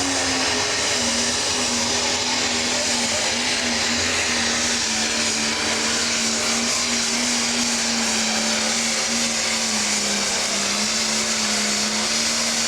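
Pro stock pulling tractor's turbocharged diesel engine held at full power while dragging the weight sled, running clean without a miss. It is a loud, steady drone with a strong hiss above it, and the pitch sags slightly about ten seconds in.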